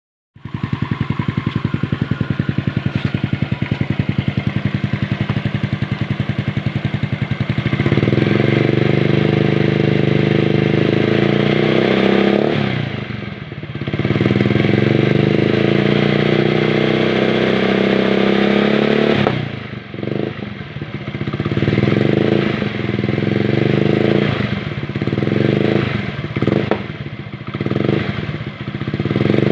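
Honda Vario 110 carburettor scooter's single-cylinder four-stroke engine running through a Tsukigi MRC aftermarket racing exhaust. It idles with an even pulse, then is held at higher revs twice, dropping back briefly in between. Near the end it is blipped up and down several times in quick throttle bursts.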